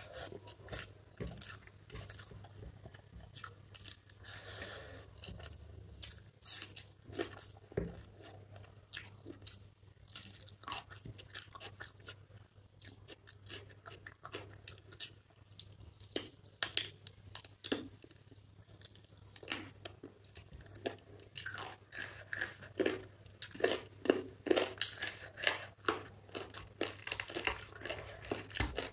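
Close-miked chewing of chicken biryani: wet mouth clicks and smacks, busier and louder in the last several seconds.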